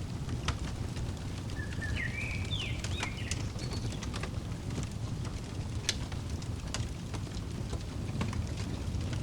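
Fireplace crackling: scattered sharp pops and snaps over a steady low rumble of burning. A bird chirps a few short notes that rise and fall, about two to three seconds in.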